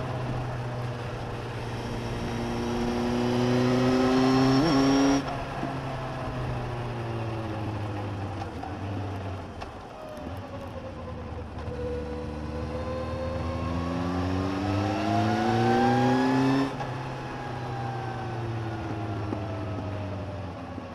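Suzuki GSX1250FA's inline-four engine under way, heard from under the seat: the revs climb for about five seconds, then drop sharply, wind down, climb again for about five seconds and drop sharply once more.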